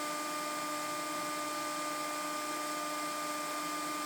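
A small motor or fan running steadily: an even whirring hiss with a constant whine in a few steady tones.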